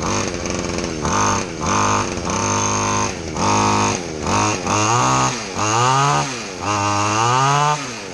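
Homemade mini bike's 49cc two-stroke engine being revved in a series of short throttle bursts, then in two longer rises and falls of pitch near the end.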